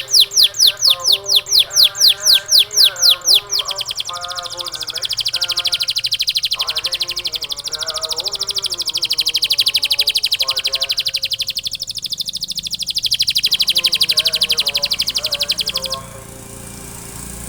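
Domestic canary singing: a series of loud, downward-sweeping whistled notes at about six a second, then a long, very rapid high trill that cuts off near the end. A fainter melodic voice runs lower underneath.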